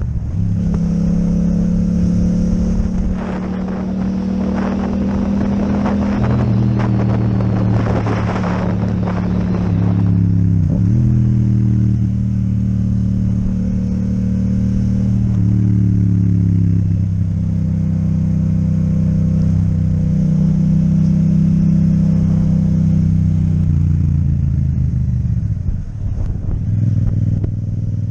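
Yamaha MT-07 parallel-twin engine through an Akrapovic exhaust, riding under way at a steady pitch. The engine note drops and picks up again about ten seconds in and near the end, as the rider changes gear or slows. A rattling noise rides over the engine between about three and ten seconds in.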